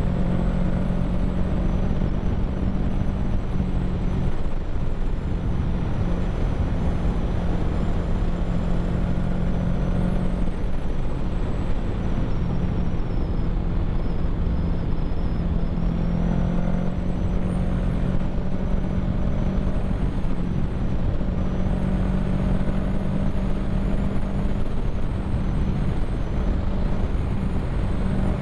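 Kawasaki Ninja 650's parallel-twin engine running at a steady cruise, holding an even pitch, under a constant rush of wind and road noise.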